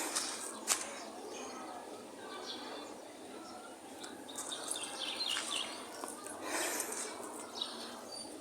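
Outdoor ambience: a steady hiss of background noise, with a couple of sharp clicks near the start and scattered short, high chirps around the middle.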